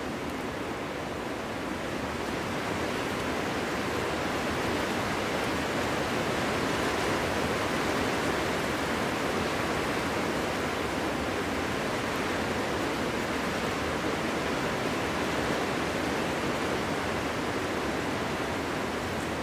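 Winter wind blowing steadily through a forest: an even rushing noise with no whistling or howling tones, growing a little louder a few seconds in.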